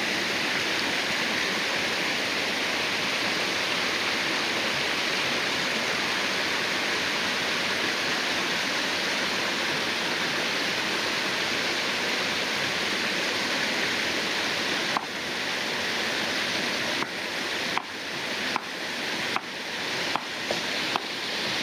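Steady rushing noise of running water. From about fifteen seconds in it is broken by a series of brief dips, each marked by a sharp click, roughly one a second.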